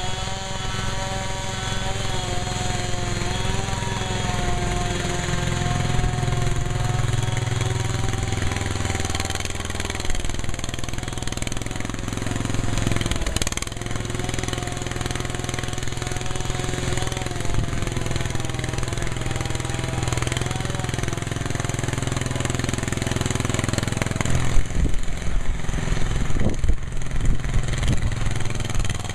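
An engine running steadily, its pitch wavering slightly, with a series of sharp knocks near the end.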